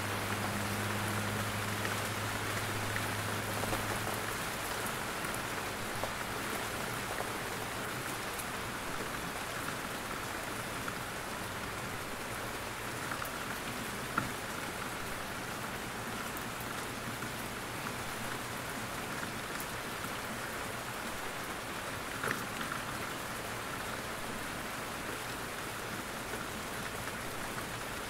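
Steady rain in a forest, with drops falling from the trees as scattered sharp ticks over an even hiss. A faint low hum lies under it for the first few seconds.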